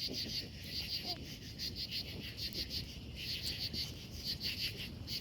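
Crickets chirping in rapid, repeated pulses, over the low rumble of a large bonfire burning.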